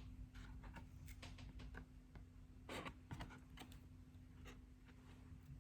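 Near silence with faint, scattered small taps and rustles, a little louder about three seconds in.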